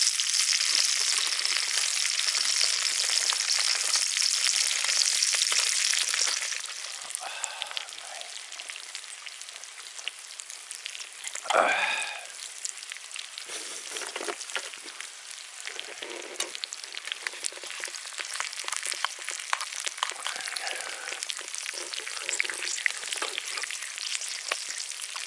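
Meat sizzling as it cooks over a campfire: a loud, dense sizzle for the first six seconds or so, then a quieter sizzle with scattered pops and crackles. A brief falling squeal sounds once about twelve seconds in.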